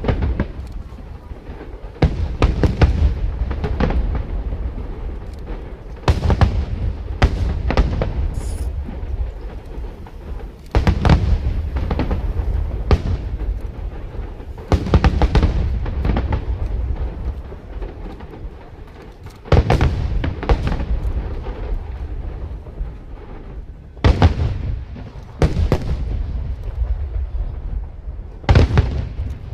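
Aerial fireworks display: shell bursts going off in quick clusters, each a sharp bang trailed by a low rumble. A brief high whistle comes about eight seconds in.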